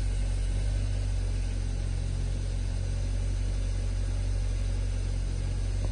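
Hyundai Sonata 2.4 four-cylinder engine idling steadily and evenly. No engine knock can be heard, just after its solenoids were cleaned to cure a knock.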